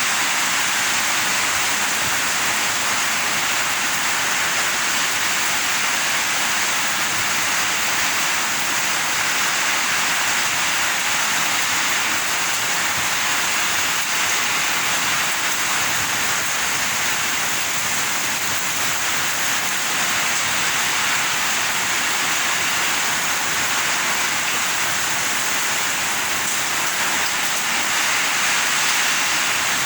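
Heavy rain pouring down in a steady, dense hiss with no letup.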